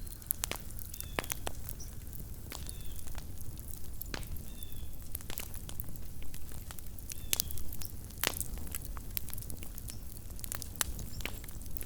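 Small campfire crackling: irregular sharp pops and snaps of burning wood over a low, steady rumble.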